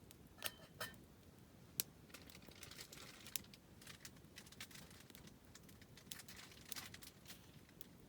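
Wood fire crackling: irregular sharp pops and snaps of burning wood, the loudest about two seconds in, over a faint hiss.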